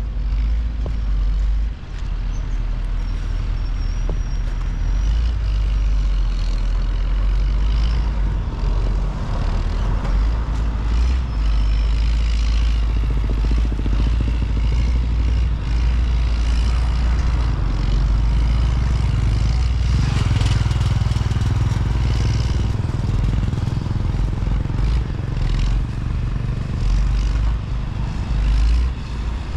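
Steady road traffic, cars and heavy trucks, passing on a busy highway, with a continuous low rumble.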